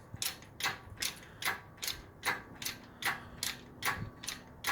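Hand-cranked engine hoist being wound up under the weight of an engine, its ratchet pawl clicking in a steady series of two or three clicks a second.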